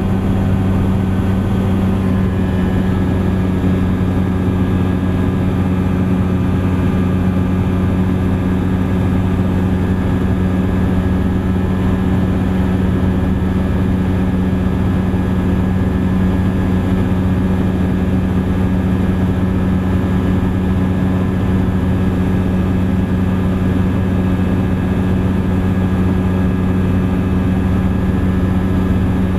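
Thruster ultralight aircraft's engine and propeller droning steadily in flight, holding one constant pitch.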